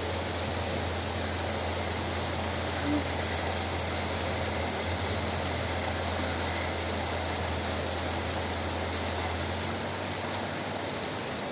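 Heavy rain falling steadily, with the low, even hum of an idling engine underneath.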